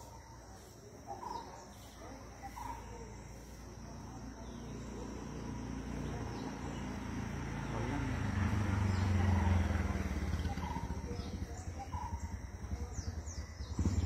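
Birds chirping in short, scattered calls, over a low drone that swells up from about four seconds in and is loudest around the middle.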